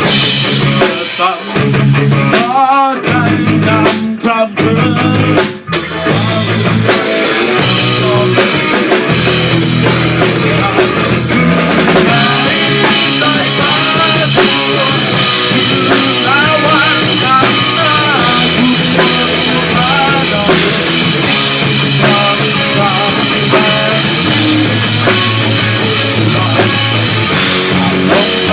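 Rock band music driven by a drum kit, with bass drum and guitar. It stops short a few times in the first six seconds, then plays on steadily.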